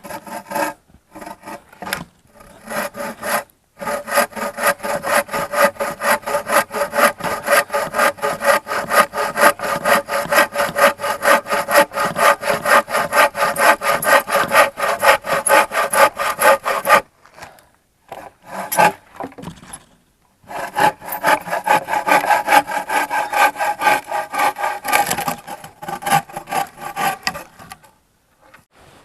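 Hand saw cutting firewood, with steady back-and-forth strokes, about two a second, in two long runs and a pause of a few seconds between them.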